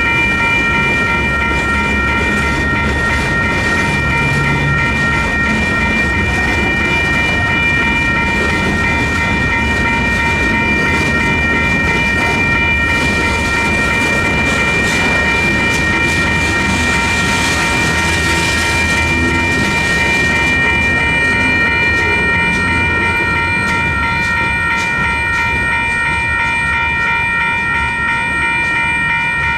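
WCH electronic railroad crossing bells ringing steadily over the low rumble of a slow freight train's cars rolling past on the rails. A rushing hiss rises partway through and fades again.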